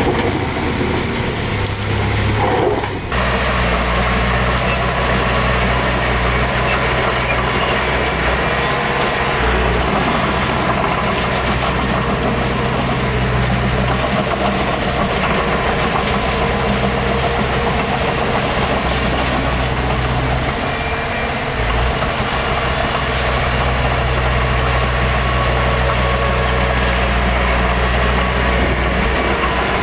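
Heavy diesel earthmoving machinery running steadily, its engine note shifting up and down a few times as it works.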